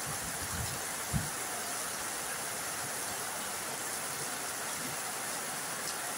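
Steady heavy rain falling, an even hiss with no pauses. A few soft low thumps come in the first second or so, the strongest about a second in.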